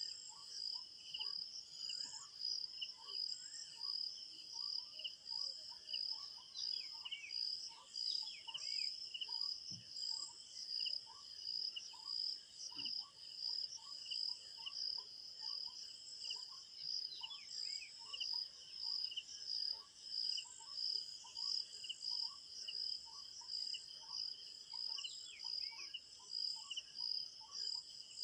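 Field crickets chirping in a steady, rhythmically pulsing chorus, with a few short falling bird calls over it now and then.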